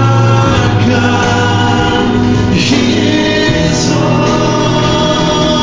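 Church choir singing gospel music, with long held notes at a steady level.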